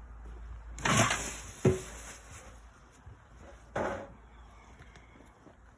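Handling noises from beekeeping gear: two brief noisy bursts about three seconds apart, with a sharp knock just after the first.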